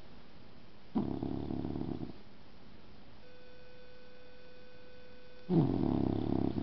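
Bulldog snoring: two snores about four and a half seconds apart, each about a second long.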